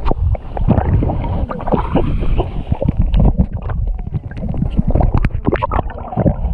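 Wind buffeting the microphone over splashing seawater, an uneven run of splashes and crackles over a constant low rumble.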